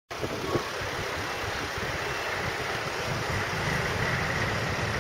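Steady rumbling hiss of a moving vehicle, with wind buffeting the microphone, cutting in abruptly from silence.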